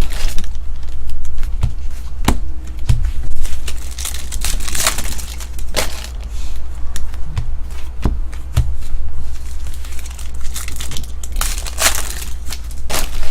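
Trading card pack wrappers crinkling and tearing as packs are ripped open, with cards being handled and shuffled in a series of sharp rustles and crackles over a steady low hum.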